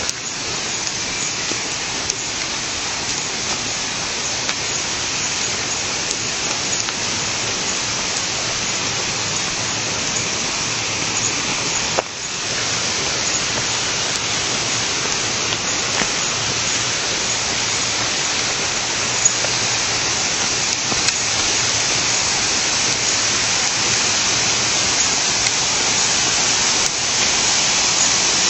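Steady rush of flowing stream water, growing gradually louder, with a brief dip about twelve seconds in.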